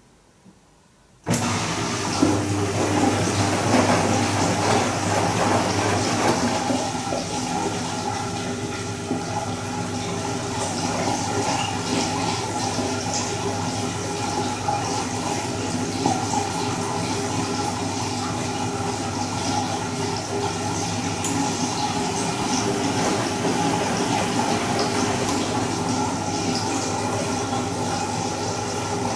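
Bosch Serie 2 Vario Perfect washing machine moving water, a steady rush with a low electric hum. It starts suddenly about a second in, after near silence, during a pause between stages of the delicate Silk cycle.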